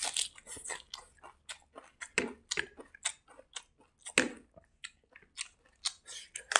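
A person chewing a hand-fed mouthful of rice and raw greens with the mouth close to the microphone, giving wet smacks and crisp crunches at an uneven pace, two of them fuller about two and four seconds in.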